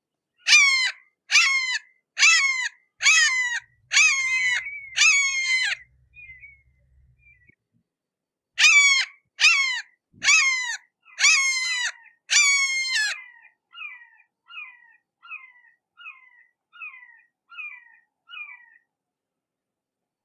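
Red-shouldered hawk giving its repeated, downslurred "kee-ah" scream: a run of six loud calls, a pause, five more loud calls, then a series of about eight fainter, shorter calls that trail off near the end.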